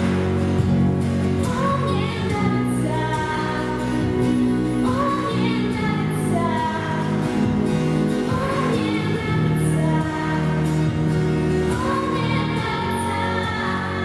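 A woman singing a song over an instrumental accompaniment, in long phrases held with vibrato.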